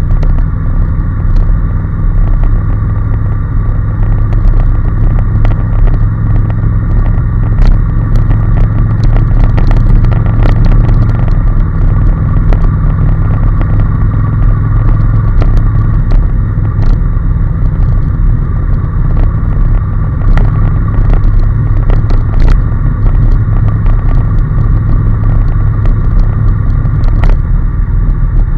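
Honda NC750S's parallel-twin engine running steadily at cruising speed, with road and wind noise. Scattered short clicks run through it, and the low engine note eases slightly partway through.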